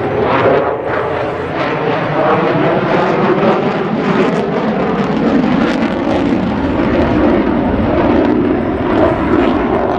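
F-22 Raptor's twin F119 turbofan jet engines: a loud, sustained rushing roar that swells in the first second and wavers throughout.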